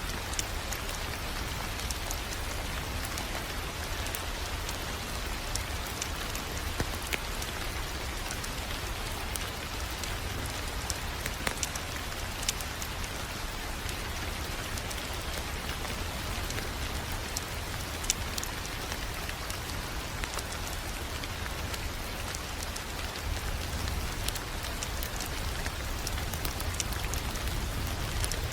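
Wood fire crackling: a steady hiss with frequent small sharp pops scattered throughout, over a low rumble.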